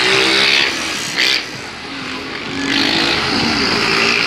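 Motorcycle engines revving as bikes ride past, the engine pitch rising and falling, with a brief louder burst about a second in.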